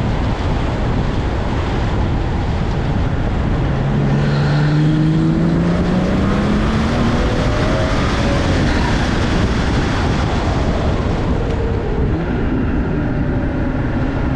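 BMW B58 turbocharged inline-six in a 2020 M340i, fitted with an MST cold-air intake, pulling under acceleration. Its pitch rises about four seconds in and again more gently later, over heavy wind and road noise.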